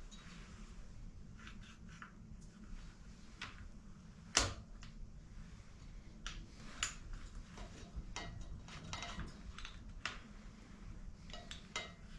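Scattered small clicks and clinks of tools and parts being handled on a workbench, with one sharper knock about four seconds in, over a steady low hum.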